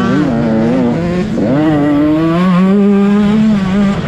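Motocross bike engine revving hard. Its pitch dips for a moment about a second in, climbs as the throttle opens, holds high, then drops away near the end.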